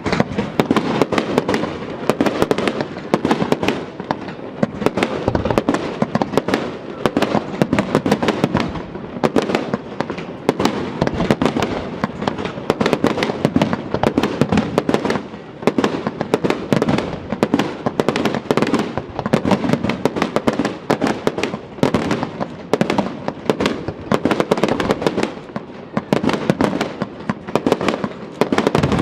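A fireworks display in full barrage: a dense, unbroken run of shell bursts, bangs and crackling, many reports a second.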